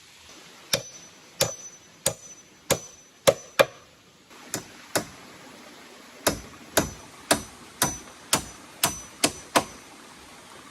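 A tool struck hard over and over, as in chopping or hammering while building a shelter. There are about sixteen blows at roughly two a second, with a short pause about five seconds in, and several blows leave a brief high metallic ring.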